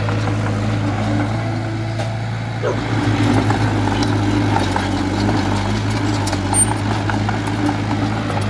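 Diesel engine of earthmoving machinery running steadily with a deep hum, working harder and sounding rougher and a little louder from about three seconds in.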